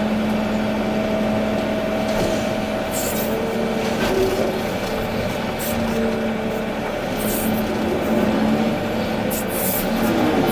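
Volvo EC380D excavator's diesel engine running steadily under hydraulic work. Its tone shifts as the hydraulics load and unload, with short hisses every second or two.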